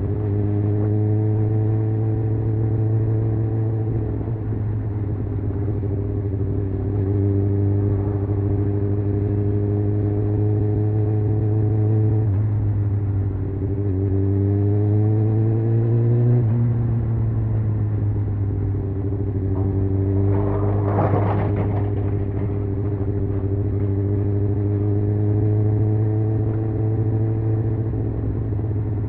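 Honda CBR600F inline-four engine running under way, its pitch climbing slowly as the bike accelerates and then dropping off sharply about sixteen seconds in. There is a short hissing burst about twenty seconds in, and the revs fall again near the end.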